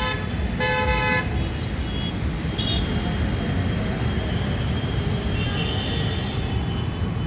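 A vehicle horn toots briefly about a second in, over a steady low rumble.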